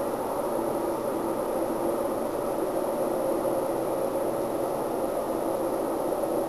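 Steady, unbroken droning hum with two held tones over a rushing noise, at a constant level. This is one of the unexplained nighttime 'strange sounds', the so-called sky trumpets; the recordist lives neither under an airport approach path nor near a helipad and has no explanation for it.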